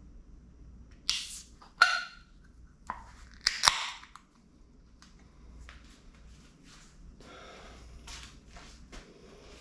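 Short scrapes and sharp clicks of handling, loudest about a second, two seconds and three and a half seconds in, with fainter rustling afterwards.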